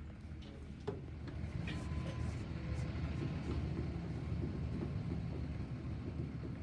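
Steady low rumble of a vehicle engine running, with a faint click about a second in.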